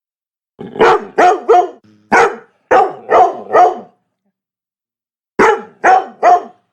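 Labrador barking: a quick run of about seven barks, a pause of about a second and a half, then three more barks.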